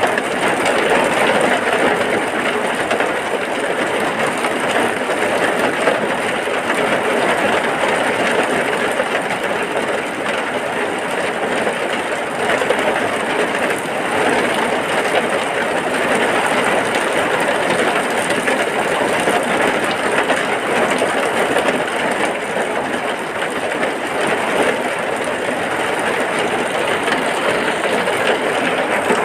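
Heavy rain falling steadily: a dense, even hiss with no breaks or changes.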